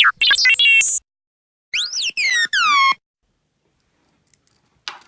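An edited-in comic sound effect: a quick jumble of pitched electronic tones, then four sliding tones that swoop down in pitch, like a "fail" jingle. A few faint small clicks follow near the end.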